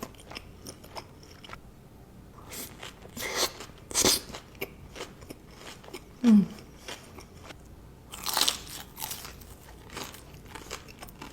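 Close-miked eating: crisp, crunchy bites followed by chewing, in separate bursts. A short low sound slides down in pitch about six seconds in.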